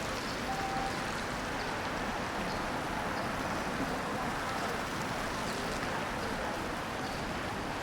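Steady street noise of city traffic on wet roads: an even hiss of tyres on water with no single event standing out.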